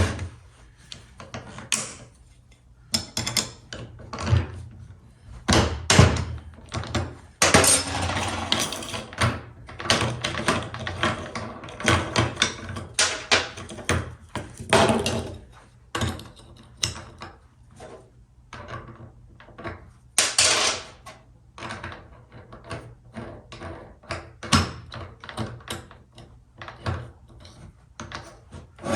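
Irregular knocks, clunks and clatter of tools and metal parts being handled on a workbench, with a couple of short scraping passes.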